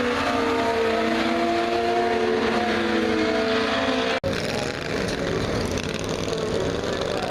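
Race car engines running, their pitch rising and falling. The sound breaks off sharply about four seconds in, and an engine then runs on at a lower, steadier pitch.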